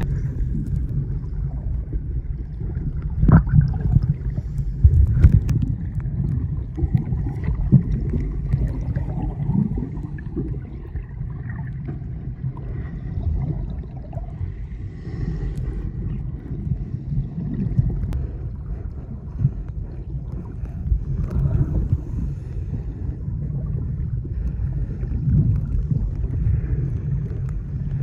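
Seawater sloshing and bubbling around a snorkeler, heard muffled from at or just below the surface as a steady low rumble, with a few sharper knocks in the first few seconds.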